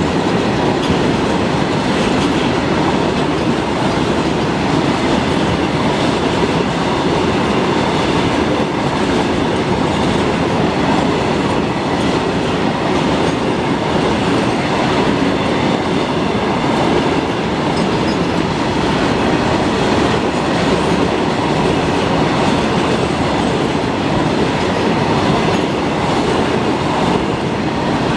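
Train running on the rails, its wheels clattering steadily over the track joints.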